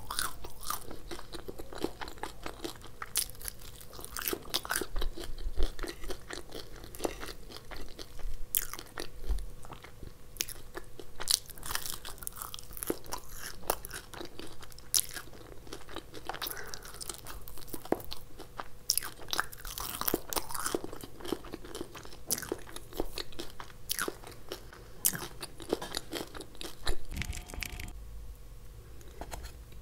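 Close-miked crunching and chewing of a crispy batter-fried soya drumstick: many irregular sharp crunches with wet mouth sounds between bites.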